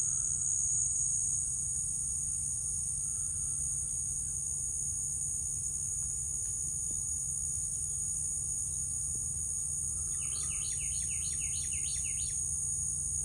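Steady high-pitched insect chorus of crickets or similar insects, over a low steady rumble. About ten seconds in comes a quick run of about eight repeated chirps lasting a couple of seconds.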